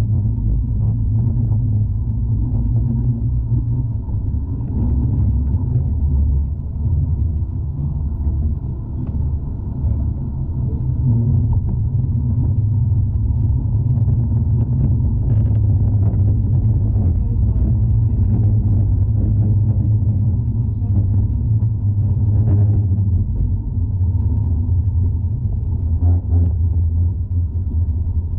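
Steady low rumble of a tram running along its rails, heard from inside the car, with faint scattered clicks and rattles.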